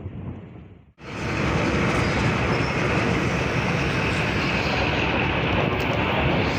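A passenger train running past close by, a loud steady rumble and rattle of its wheels and carriages on the track, starting abruptly about a second in.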